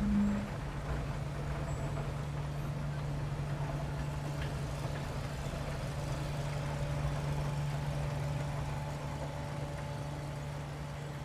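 Five-axis DMG MORI CNC mill running, a steady low machine hum with faint higher tones over a noise bed.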